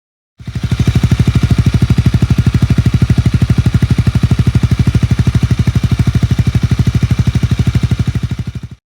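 Honda Rebel 250's single-cylinder engine idling through a Moriwaki aftermarket muffler: a steady, even exhaust beat of about a dozen pulses a second. It cuts in abruptly just after the start and cuts off abruptly just before the end.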